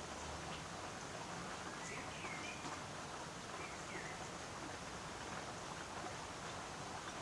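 Steady patter of rain and dripping water, with a bird giving a few short chirps about two seconds in and again about four seconds in.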